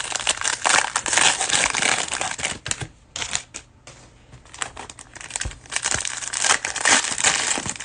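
Cellophane wrapper of a trading-card cello pack crinkling as it is torn open and crumpled, in two spells of crackling with a quieter gap in the middle.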